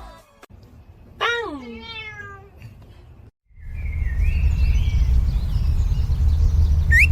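A cat meows: one falling call about a second in, trailing into a fainter second call. After a brief dead gap, a loud low rumbling noise starts and is the loudest thing heard.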